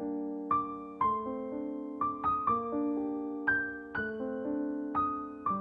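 Background music: a gentle piano or electric-piano melody, notes struck about twice a second and fading between strikes.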